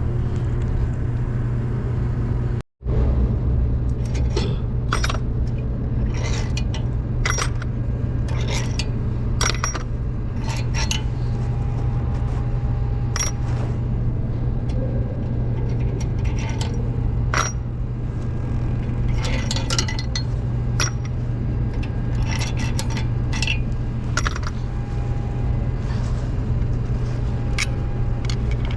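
Metal hand tools and engine parts clinking and scraping in irregular sharp clicks, over a steady low hum. The sound cuts out for a moment about three seconds in.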